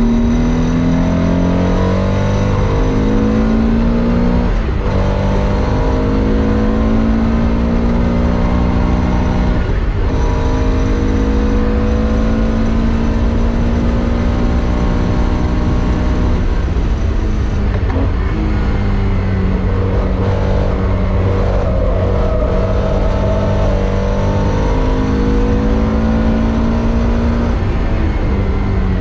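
Classic Porsche race car engine at hard throttle, its pitch climbing steadily through each gear and dropping at each gearshift, several times over, with heel-and-toe throttle blips on the downshifts.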